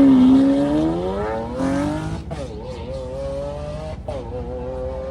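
A performance car's engine accelerating hard. Its pitch climbs, then drops at an upshift about two seconds in and again about four seconds in, loudest at the start.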